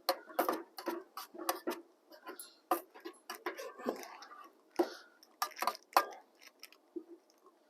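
Irregular small clicks and taps of utensils and dishes during a meal, a few sharp ones at a time with short gaps between.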